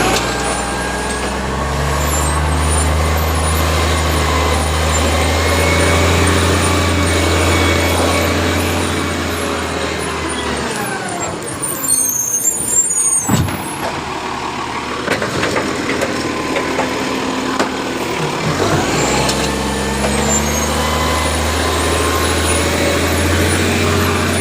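Garbage truck's diesel engine running under load as it drives, then dropping to idle about halfway through, with a short sharp hiss of the air brakes as it stops. After a pause the engine revs up again and the truck pulls away.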